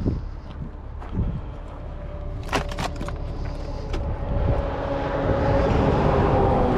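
Car running and pulling away, its engine and road noise building up over the second half, with a few sharp clicks about two and a half seconds in.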